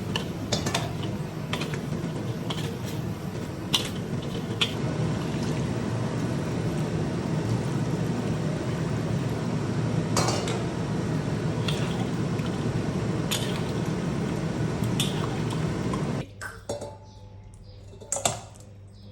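Spatula clinking and scraping against a cooking pan over a steady rushing noise from the cooking and stove. The rushing noise stops abruptly about sixteen seconds in, leaving a few more clinks.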